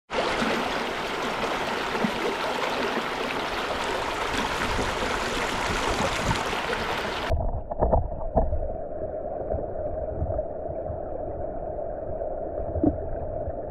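Valley stream water rushing. About seven seconds in, the sound cuts abruptly to a muffled version with a steady hum and a few knocks.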